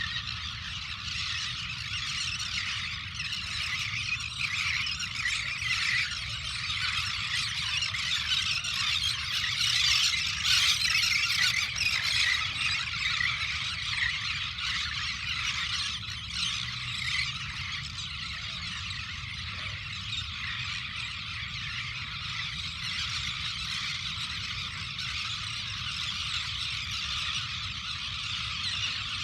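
Dense chorus of many birds calling at once, a constant mass of squeals and chatter, swelling loudest about ten seconds in, over a steady low rumble.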